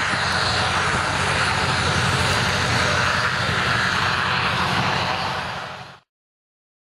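Aircraft engine running with a steady, even drone, fading quickly and cutting to silence about six seconds in.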